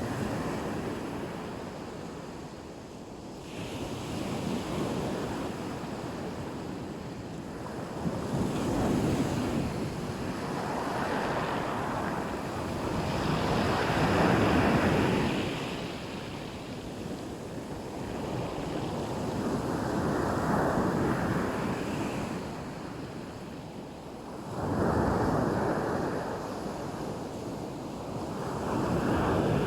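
Black Sea surf on the beach, waves washing in and drawing back one after another in swells of rushing water every four to six seconds, with a sea breeze blowing.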